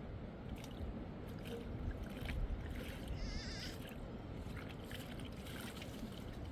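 Low, steady rumbling background noise with a few small knocks, and one short, wavering bleat from the flock about three seconds in.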